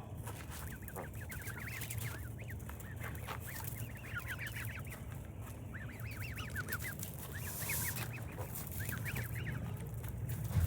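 Baby ducks peeping in quick runs of short, high calls, over a steady low hum.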